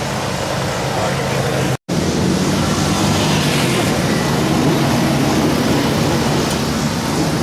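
Wingless sprint car engines running on a dirt oval, a steady loud engine drone with pitch rising and falling as the cars lap. The sound cuts out for an instant about two seconds in, then the engines continue.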